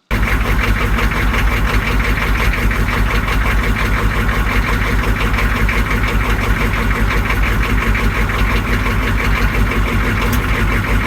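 Humvee's V8 diesel engine idling loudly and steadily, cold-soaked from sitting in below-zero temperatures with no block heater.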